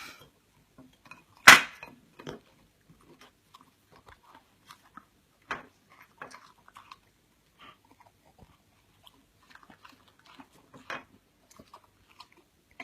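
A dog chewing and crunching food, in irregular bites and clicks, with one loud sharp clack about a second and a half in and smaller ones around five and eleven seconds in.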